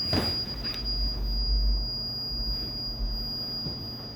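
A steady, high-pitched electronic tone that holds one pitch throughout, over a low electrical hum, with a brief rustle just after the start.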